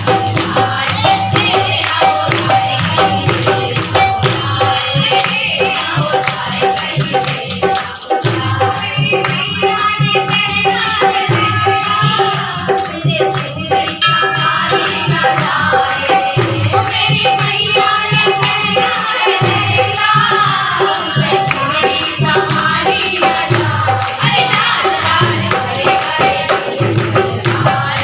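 Devotional song in praise of the mother goddess: voices singing over a steady rhythmic beat with jingling hand percussion such as a tambourine.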